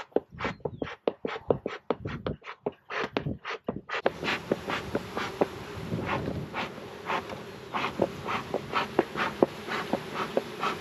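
Honeybees buzzing around an opened hive that is being smoked to drive them down into the lower box, with a quick series of short puffs or clicks, about three or four a second. The steady hum of the bees comes in about four seconds in.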